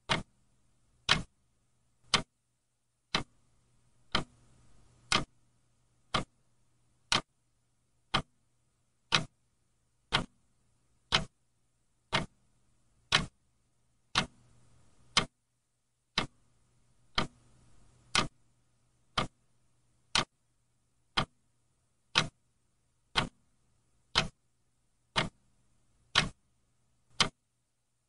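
Clock ticking steadily, about one sharp tick a second, over a faint low hum.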